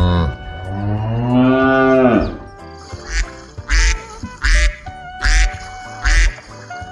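A cow mooing once in a long call that rises and falls, then a duck quacking five times in short loud calls, over background music.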